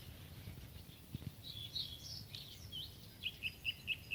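Nightingale fledgling calling: a few varied high chirps, then from about three seconds in a quick series of short, even chirps, about five a second.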